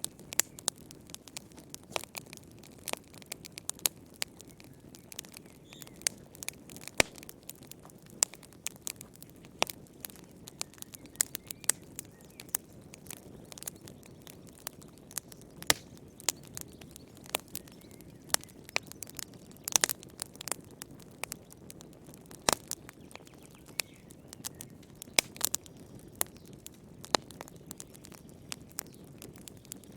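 Wood fire burning in a fireplace: irregular sharp crackles and pops from the burning logs, several a second, over a low steady hiss of the flames.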